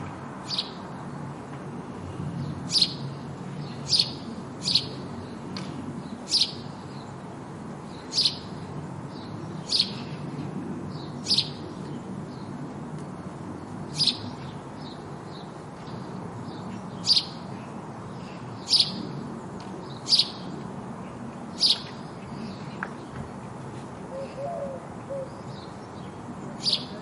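Sparrow chirping: single short, sharp chirps every second or two over steady low background noise.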